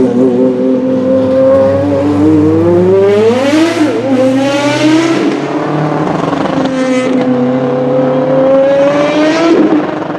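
Race car engine running hard under load, its pitch climbing about three seconds in with a short dip at a gear change, then holding and climbing again near the end.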